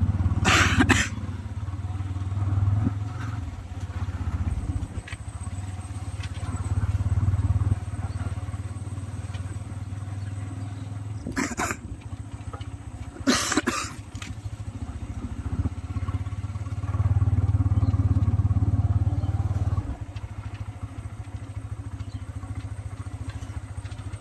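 Motorcycle engine running while riding along a rough road, its low drone swelling and easing. There are three short rushes of noise, one near the start and two around the middle.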